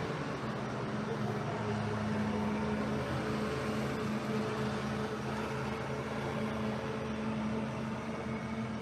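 Steady mechanical hum: a low drone holding a few even tones over a hiss, without a break.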